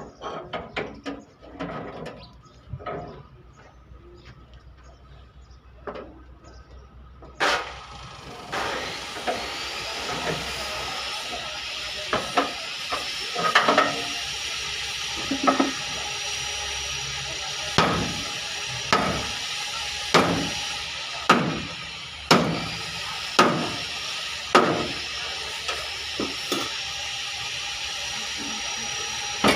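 Sharp knocks of hammer blows on steel body panels, scattered at first and then every second or two. A steady hiss of air starts about seven seconds in and runs under the blows.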